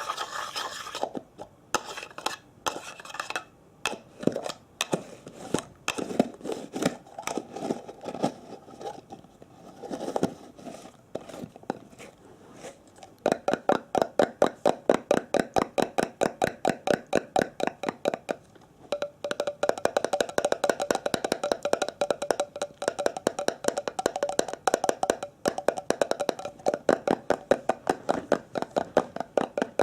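Tapping on a hard object as an ASMR trigger: scattered taps and light scraping at first, then about halfway in a fast, even run of crisp taps, several a second.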